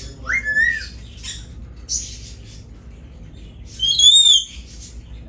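Parrots calling: a short rising whistle near the start, a brief chirp about two seconds in, and a loud harsh screech about four seconds in.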